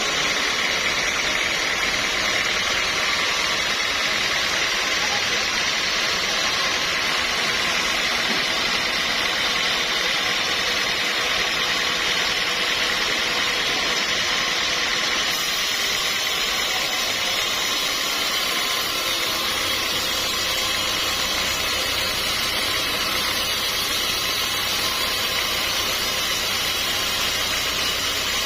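Sawmill machinery running steadily, an even mechanical noise with no breaks or changes.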